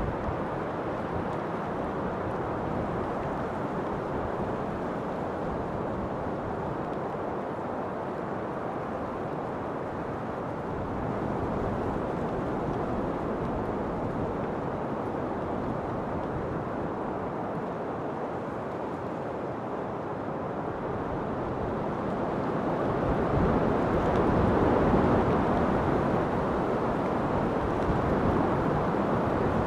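Steady rushing wind, swelling into a louder gust about three-quarters of the way through.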